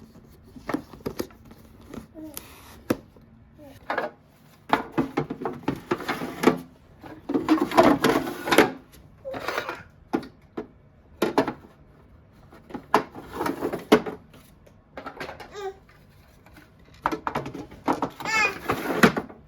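Plastic storage cases and their drawers being handled: repeated clicks, knocks and rattles as cases are set down and drawers slid and filled, with denser clattering in two spells. A brief voice is heard near the end.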